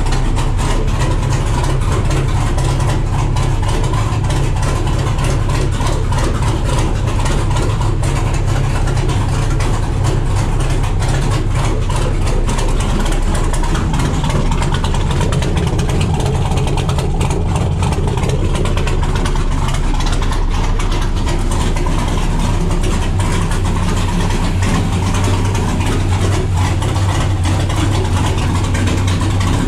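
GM Vortec engine idling steadily through open boom-tube side exhaust, the sound echoing in the garage.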